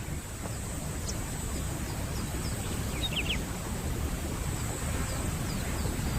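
Natural ambience: a steady low rumble with small birds chirping faintly, short high notes repeated throughout and a brief cluster about halfway through.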